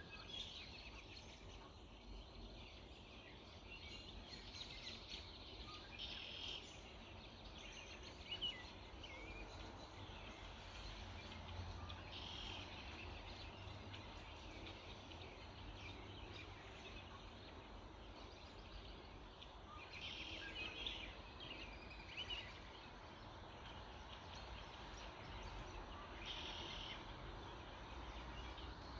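Wild birds singing and calling in the early morning: short chirps and song phrases from several birds come and go over a steady low background rumble.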